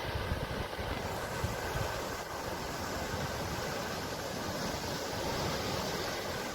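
Sea surf washing in a steady, even rush that swells slightly about five seconds in, with a low rumble of wind on the microphone underneath.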